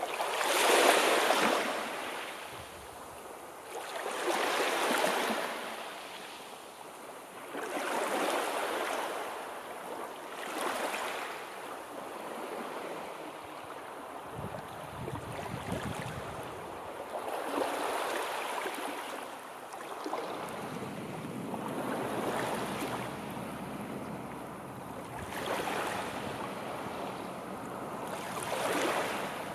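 Sea waves breaking and washing up the shore, each one swelling into a rushing hiss and fading again every few seconds, with the strongest surge about a second in.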